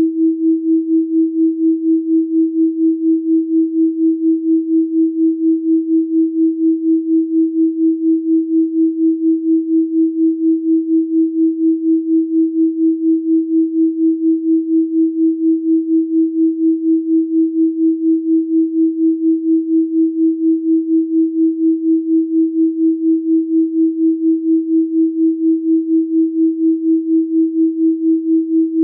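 Electronically generated pure sine tone at 324 Hz, held steady, pulsing evenly in loudness about three times a second.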